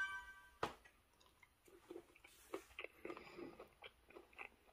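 Close-miked chewing of a mouthful of raw mandarin fish sashimi in a leaf wrap: faint, soft, wet clicks and squishes. At the very start, the tail of a bell-like chime dies away.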